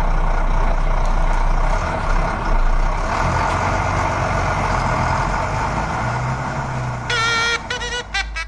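Truck engine sound effect running steadily. About seven seconds in it gives way to a chirpy, high-pitched tune of short notes that bend in pitch.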